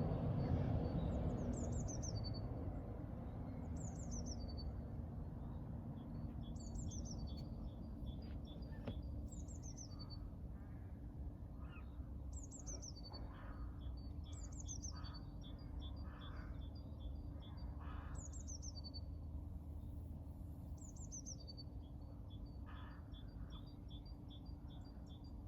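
Birds singing. One bird repeats a short, high phrase that falls in pitch about every two seconds, over quick runs of chirps and a few lower calls.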